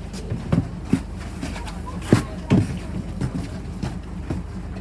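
Engine of an ethanol-fuelled Scania Citywide city bus running steadily, with several sharp knocks and rattles over it.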